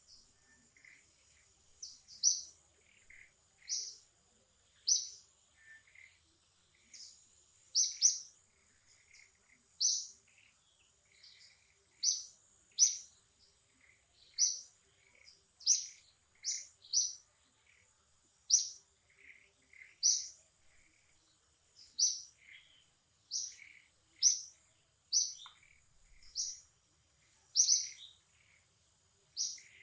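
A bird chirping over and over, short high chirps about once a second, some much louder than others, over a steady high-pitched whine.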